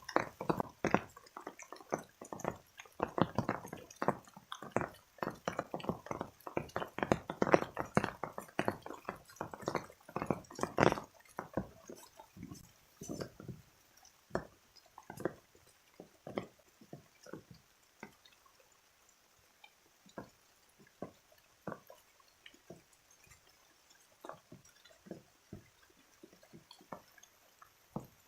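Water drops falling and splashing irregularly, dripping rain: thick and fairly loud for the first dozen seconds, then thinning to scattered single drops.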